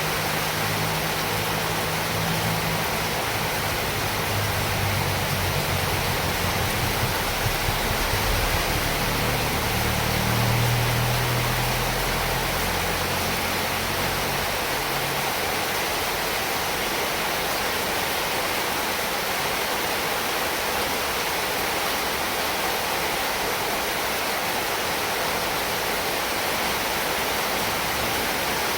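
Heavy rain falling steadily: a dense, even hiss of rainfall. A low rumble runs under it through the first half and fades out around the middle.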